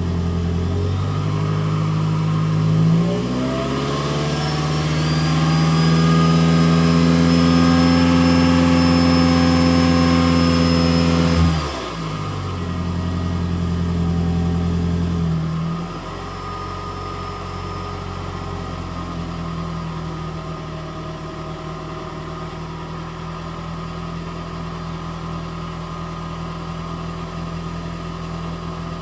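2011 Toyota Prius's 1.8-litre four-cylinder engine, held running in maintenance mode, heard through a Tanabe Medalion Touring cat-back exhaust. It climbs to a steady higher speed a few seconds in and holds there, drops back sharply just under halfway through, then settles a few seconds later to a lower steady idle.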